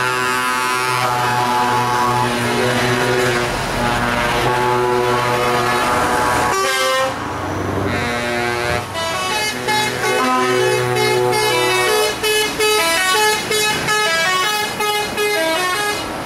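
Several truck air horns sounding together in long, overlapping blasts at different pitches. After a short break they give way to many short, quickly changing toots.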